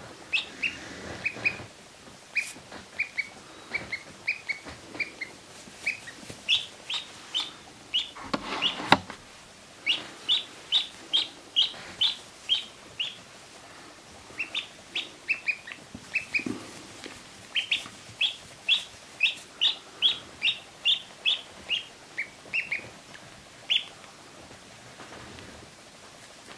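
Ducklings peeping: short, high peeps in runs of about two or three a second, with short pauses between the runs. There is a brief rustling noise about nine seconds in.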